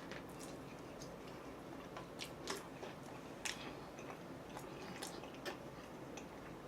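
Quiet close-up chewing of food, with faint crunchy clicks scattered irregularly, roughly one or two a second.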